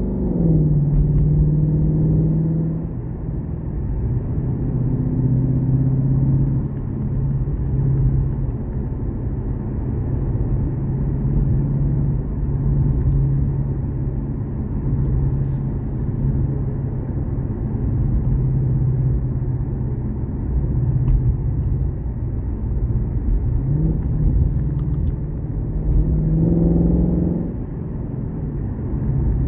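Ford Mustang's engine and exhaust droning steadily while cruising, heard from inside the cabin. The pitch drops just after the start, and near the end it rises briefly under acceleration before falling away again.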